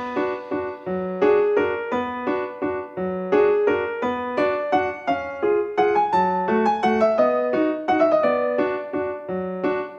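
Background piano music: a steady run of single notes with a bass note under them.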